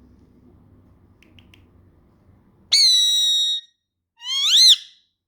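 Indian ringneck parrot whistling: three faint chirps, then a loud whistle held steady for about a second, then a second whistle that rises and falls.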